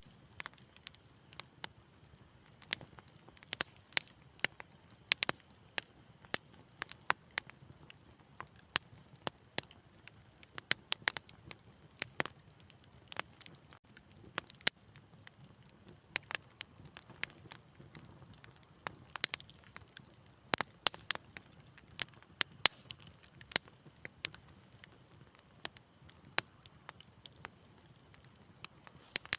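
Wood fire crackling in a fireplace: irregular sharp pops and snaps, several a second, over a soft low rumble of flames.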